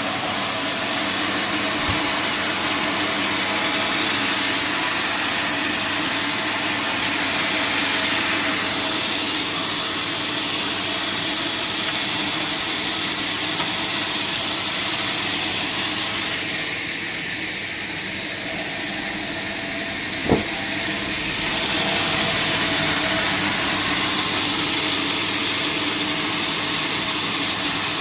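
Sawmill band saw running and cutting teak wood: a steady machine hum under a dense, hissing sawing noise. The sawing eases for a few seconds past the middle, with a single sharp knock, then picks back up.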